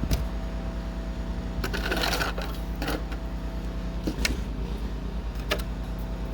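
Snow shovel scraping and knocking on stair steps: a few separate knocks and one longer scrape about two seconds in, over a steady low pulsing hum.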